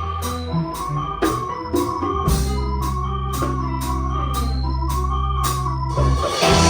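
A band playing an instrumental passage: an organ-sound keyboard over held bass notes, with a cymbal ticking about twice a second. The sound gets fuller near the end.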